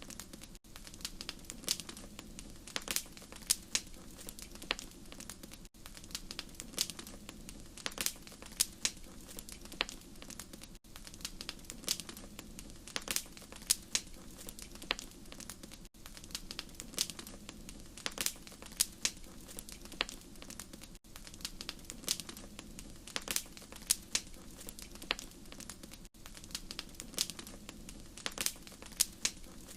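Wood fire crackling, with irregular sharp pops and snaps over a steady low hum of burning. Brief dropouts come about every five seconds.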